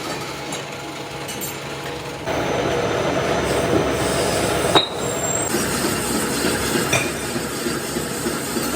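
Steady noise of metalworking machinery in a machine shop, getting louder about two seconds in, with a single sharp clank about five seconds in.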